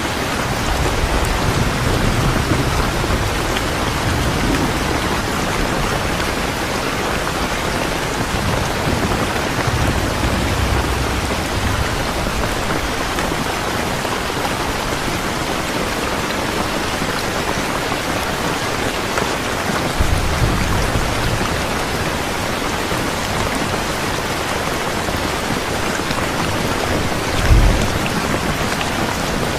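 Steady, heavy rain pouring down, an even dense hiss, with low rumbles swelling up a few times and a short low thump near the end.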